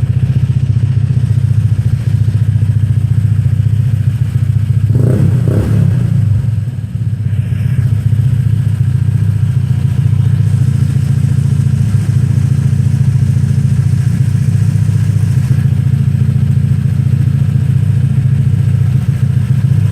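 Honda PCX scooter's single-cylinder four-stroke engine running steadily at idle through its exhaust silencer, with a short rise and fall in pitch about five seconds in.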